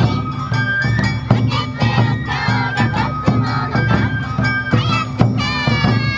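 Awa Odori festival music played live by a street ensemble: high bamboo flutes holding and sliding between notes over a driving rhythm of taiko drums and a clanging kane gong.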